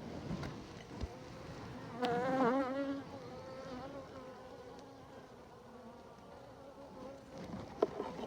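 Honeybees buzzing at the hive, with one bee buzzing close by about two seconds in, loudest for about a second and wavering in pitch, then fading back into a steady hum. A few light clicks.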